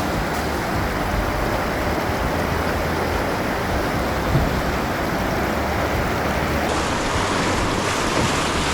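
Whitewater of a river rapid, a steady rushing of water.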